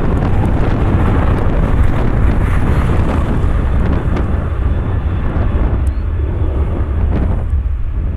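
Southwest Airlines Boeing 737's jet engines running at takeoff power: a steady loud rumble and roar that eases slightly in the second half, with wind buffeting the microphone.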